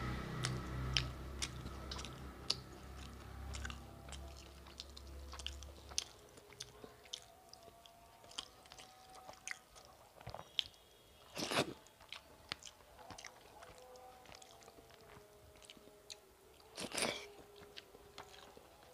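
Close-up eating sounds of a person chewing rice and fried fish: many small, sharp mouth clicks and smacks, with two louder bites, one about halfway through and one near the end. A low hum underneath stops about six seconds in.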